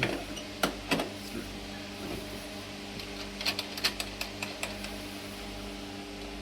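Sharp metal clicks and knocks from battery cables and terminal hardware being handled while the batteries are connected to a terminal block: a couple about a second in and a quick cluster between three and a half and four and a half seconds in. A steady low hum runs underneath.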